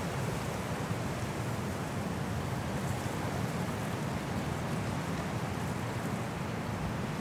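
Strong wind blowing steadily through trees in a snowstorm, a dense rushing noise with a deep low rumble and no gusts standing out.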